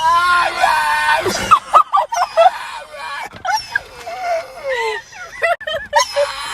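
A run of high-pitched, wavering vocal calls that glide up and down in pitch, broken by short gaps, like wailing or yowling.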